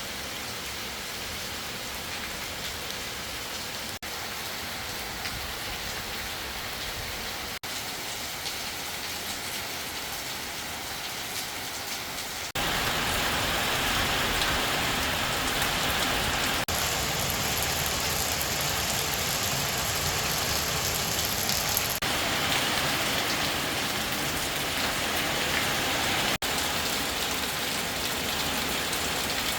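Steady rain falling as an even hiss, abruptly louder and heavier from about twelve seconds in.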